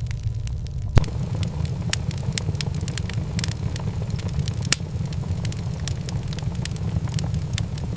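A fire crackling, with irregular sharp pops over a steady low rumble.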